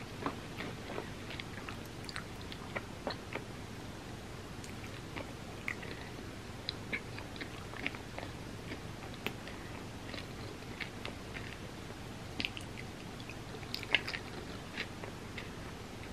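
Chewing a chocolate-coated peanut butter and puffed-rice candy bar, with small clicks scattered irregularly throughout, the loudest about fourteen seconds in.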